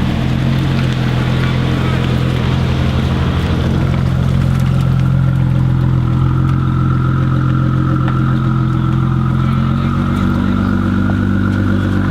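A car engine idling steadily close by, a low even hum with no revving.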